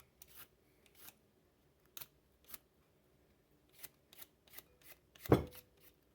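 Kitchen handling on a counter: scattered light clicks and taps, with one louder knock about five seconds in.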